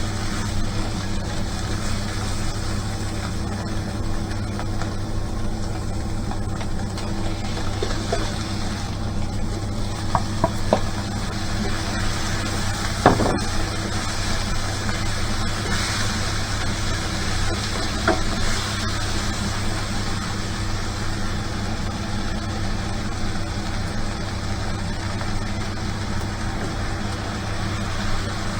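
Steady low mechanical hum, such as a kitchen fan or appliance, with a few light knocks of cooking utensils, the clearest about thirteen seconds in.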